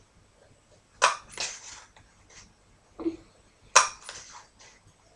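A handheld hole punch snapping through card twice, about a second in and near four seconds in. Each sharp snap is followed by a few lighter clicks as the punch springs open and the card is shifted along for the next hole.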